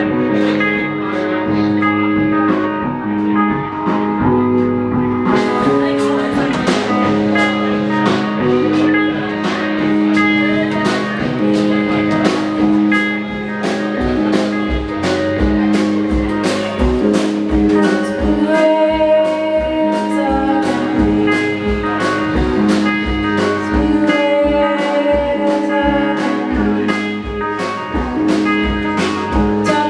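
Live blues band playing with guitar over steady held low notes. Drum strokes come in about five seconds in, and a regular low beat joins from about halfway.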